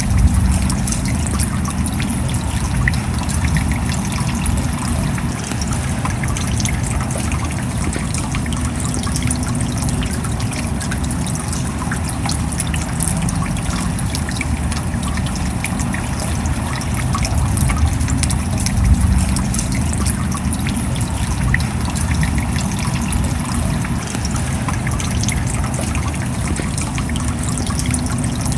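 Steady rain falling, a dense patter of individual drops over a continuous low rush of water.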